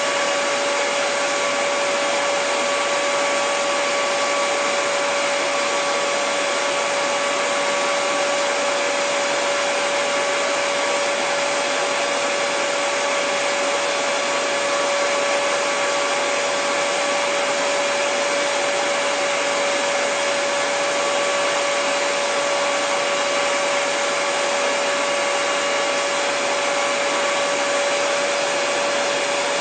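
Handheld hair dryer running steadily: an even rush of blown air with a constant motor whine.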